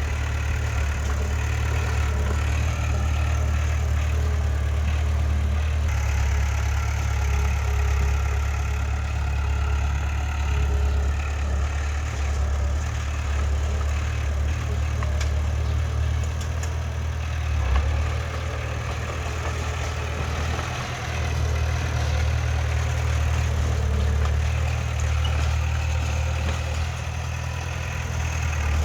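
Diesel engine of heavy earthmoving machinery running steadily at a low, even drone, swelling and easing slightly, with a single brief knock about eighteen seconds in.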